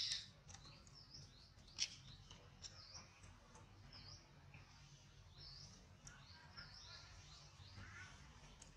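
Faint bird chirps: short high calls repeating every half second or so, with one sharp click about two seconds in.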